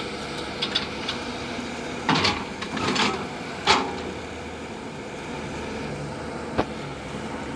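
Heavy machinery engine running steadily, with a series of sharp clanks and knocks, the loudest about three and a half seconds in.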